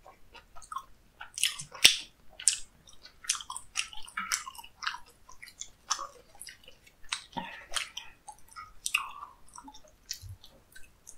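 Close chewing of chewy raw sashimi: irregular wet, sticky mouth clicks and smacks. Around six seconds in, lettuce leaves rustle as they are pulled from a pile.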